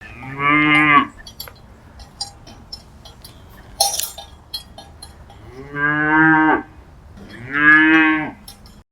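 Cow mooing three times, each moo about a second long, with a long gap after the first. Faint clicks and a short clank are heard between the moos.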